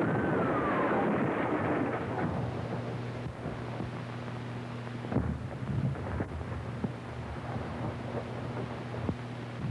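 A cry of "Monica!" falling in pitch at the start, then the steady hiss and low hum of a worn early sound-film track, with a few faint knocks about halfway through and near the end.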